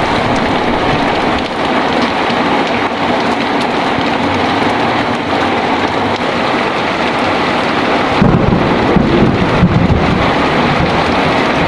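Heavy rain pouring steadily, with a deep rumble of thunder rolling in about eight seconds in and lasting a couple of seconds.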